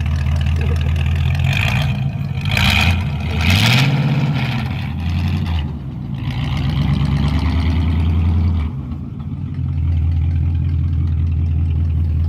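A vehicle engine running with a steady low note. It revs up about three and a half seconds in, with a couple of loud rushes of noise around then.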